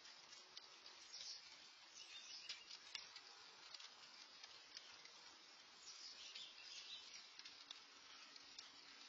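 Faint light rain: a soft steady hiss with scattered small drip ticks.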